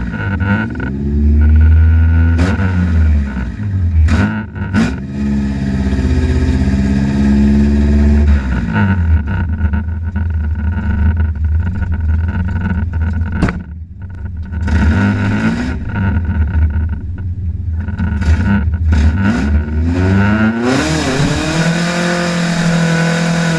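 Drag car's engine heard from inside the cabin, idling and being blipped over and over, its pitch rising and falling with each rev. Near the end it is held at a longer, louder rev.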